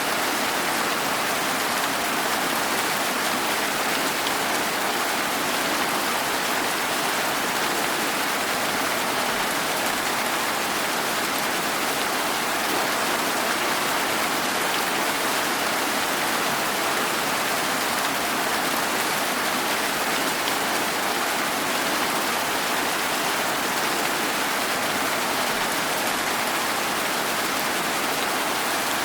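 Steady rain falling, an even wash of rain noise that does not change in strength.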